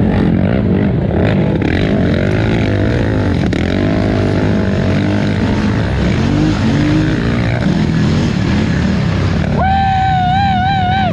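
A Polaris Scrambler 1000 XP ATV engine revving up and down under hard throttle while racing. For the last second and a half a high, wavering tone rises above the engine.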